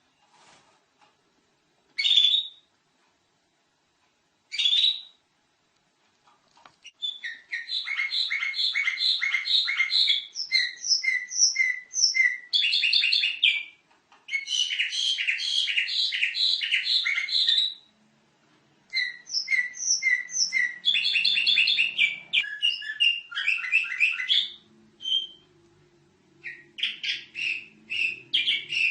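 Domestic canary singing. A few short single chirps open it; then, about seven seconds in, come long runs of rapid trills and rolling phrases, broken by short pauses.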